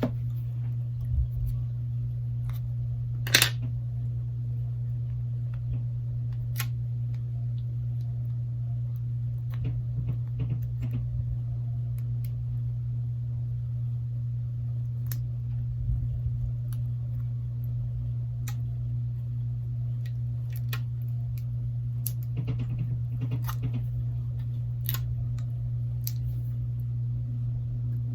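Scattered small clicks and taps from phone components and small hand tools being handled and fitted together, one sharper click about three seconds in. Under them runs a steady low hum.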